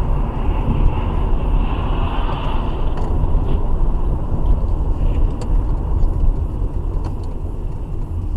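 Car on the move: a steady low rumble of engine and road noise, with a few faint ticks.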